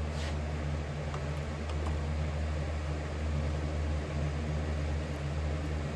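Steady low mechanical hum with a light airy hiss, from a fan running without change.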